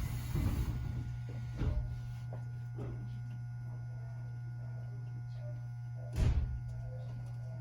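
Steady low hum inside a train carriage, broken by a few short knocks, the loudest about six seconds in.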